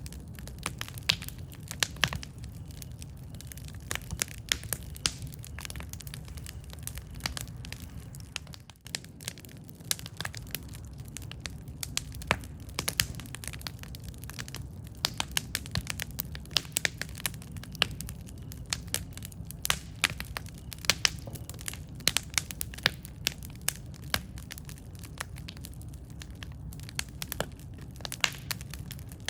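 Wood campfire burning: a steady low rumble of flames with irregular sharp crackles and pops, several a second.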